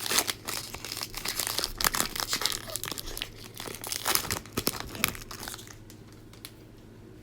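A foil trading-card pack wrapper being crinkled and torn open, a dense crackling that dies away after about five and a half seconds.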